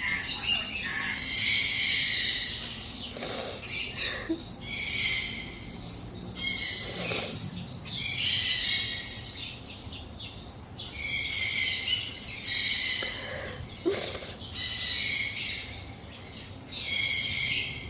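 Small pet bird chirping: repeated bursts of rapid high chirps, each about a second long, coming every few seconds.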